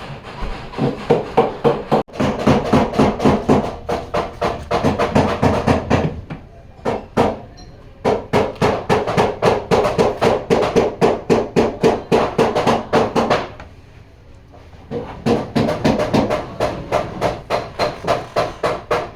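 Rapid hammer blows on the sheet-metal rear body of a Suzuki Wagon R, about three or four a second, in runs with short pauses: panel beating to work out collision damage.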